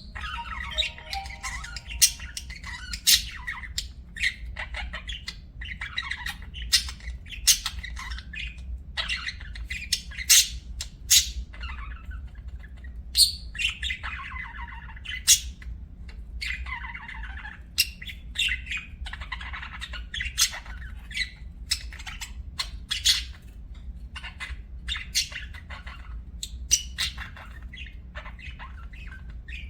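Budgerigars chattering, a continuous run of warbling chirps broken by sharp squawks every second or so, over a steady low hum.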